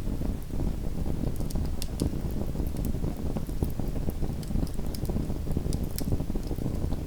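Small wood fire in a fireplace crackling, with a steady low rumble of flame and many scattered sharp pops and ticks.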